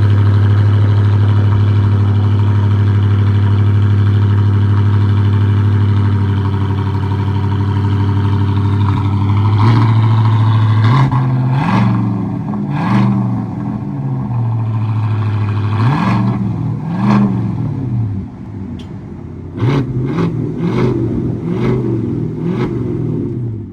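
2025 Chevrolet Silverado 1500's 5.3-litre V8 through a Tunnel Ram true dual exhaust, idling steadily, then revved in a series of short throttle blips from about ten seconds in, the pitch rising and falling with each blip.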